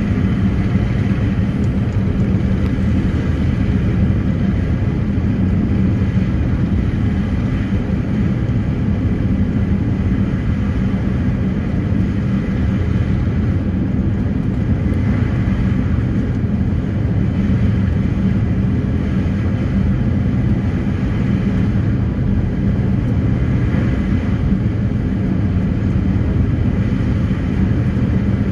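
Passenger ferry's engines running steadily, a constant low drone with a steady hum underneath.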